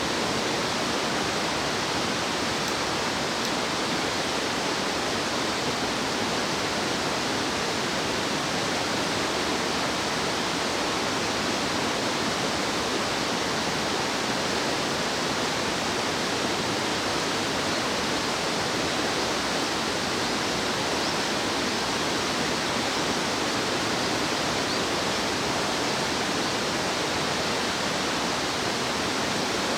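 Rushing stream water: a steady, even rush of flowing water with no change through the whole stretch.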